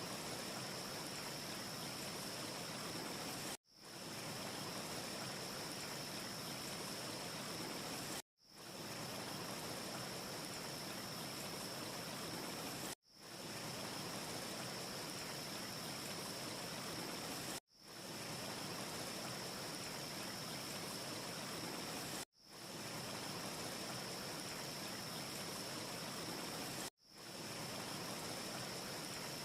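Steady rushing ambience noise with a faint high whistle running through it, without any crackle. Every four and a half seconds or so it drops out for an instant and fades back in: a short sample looping.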